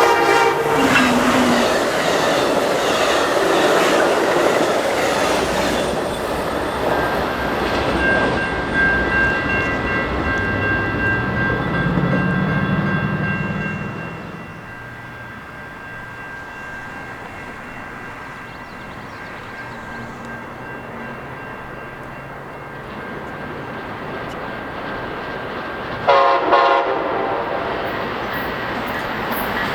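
Train passing with its horn sounding at the start and wheels clattering on the rails, loud for about the first 14 seconds and then quieter. A short horn blast comes about 26 seconds in.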